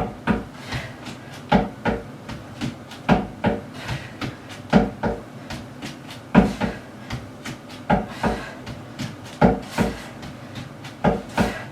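Feet thudding on a plyo box and the floor during a fast plyometric exercise: pairs of quick thumps about every second and a half, in a steady rhythm.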